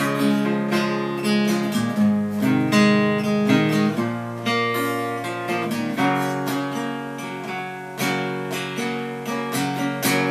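Epiphone Hummingbird acoustic guitar playing strummed chords that ring out. A hard strum about eight seconds in rings down gradually toward the end.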